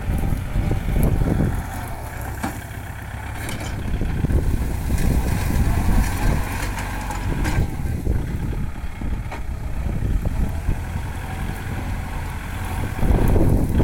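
A Kubota farm tractor's diesel engine running steadily under load in the field, a little louder near the end.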